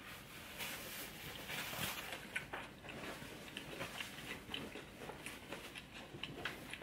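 A person chewing and biting food, with many short, irregular wet mouth clicks and smacks.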